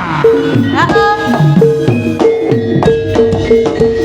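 Javanese jaranan gamelan music played loudly: metallophones repeat one note in a quick, even pulse over other struck notes and drum strokes.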